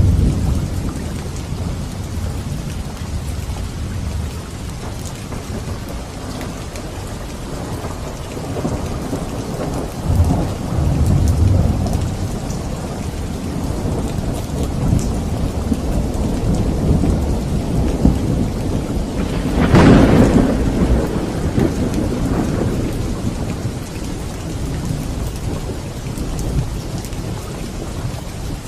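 Steady rain falling through a thunderstorm, with low rolling thunder. About two-thirds of the way through, a sharp thunderclap cracks and rumbles on for a few seconds.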